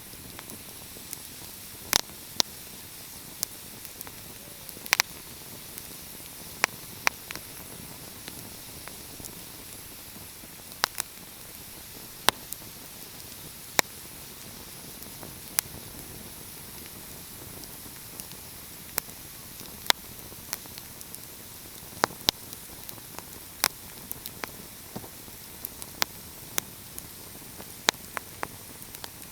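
Fireplace fire crackling: irregular sharp pops and snaps, about one or two a second, over a steady soft hiss.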